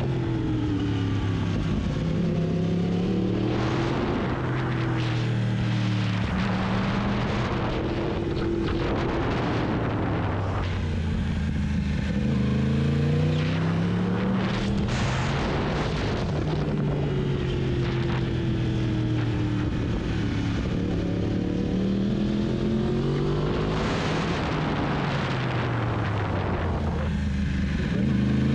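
Sport motorcycle engine heard from on board, its revs repeatedly climbing and dropping back every few seconds as the bike is accelerated, shifted and rolled off through a series of corners.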